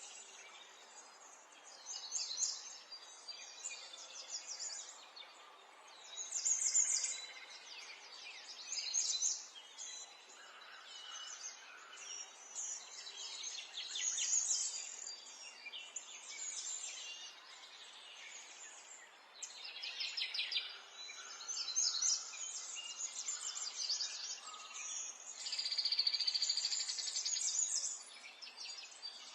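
Several small songbirds chirping and singing in quick, high phrases that come in clusters every second or two, over a faint steady outdoor hiss.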